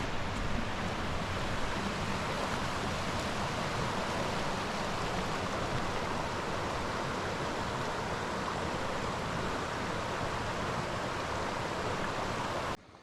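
Steady rushing of flowing water, which cuts off suddenly near the end.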